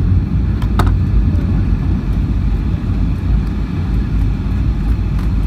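Boeing 757-200 cabin noise heard from a seat near the rear: a steady low rumble of engines and airflow. A single short click about a second in.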